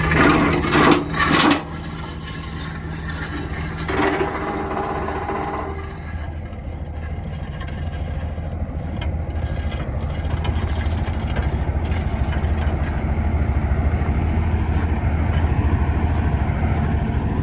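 Heavy diesel engine idling steadily, with louder passages in the first second or so and again about four seconds in.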